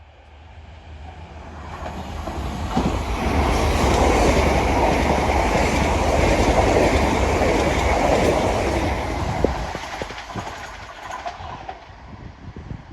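A train passing by: rail noise builds over the first few seconds, stays loud for about six seconds, then dies away. A few sharp clicks come near the end of the pass.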